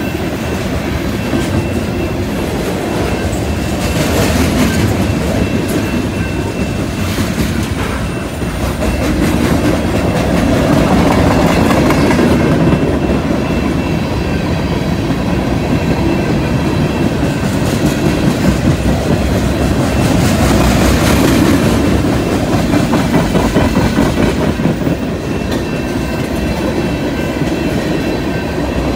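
Freight train cars (tank cars, covered hoppers and boxcars) rolling past: a steady rumble with wheel clickety-clack on the rails, swelling louder twice as cars go by.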